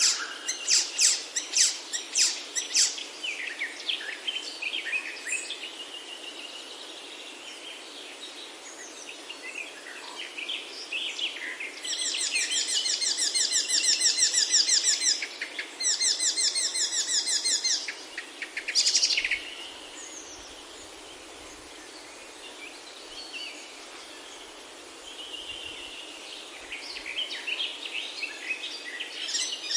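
Several songbirds singing and chirping. About twelve seconds in, one bird gives a fast, even trill lasting about three seconds, pauses briefly and repeats it.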